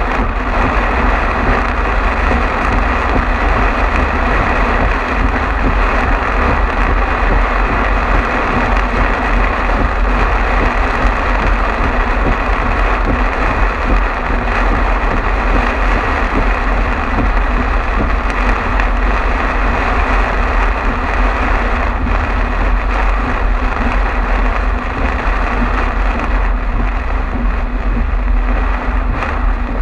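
Car driving at speed on a highway in a heavy rainstorm: a steady deep rumble of tyres on the wet road under a constant hiss of rain and spray.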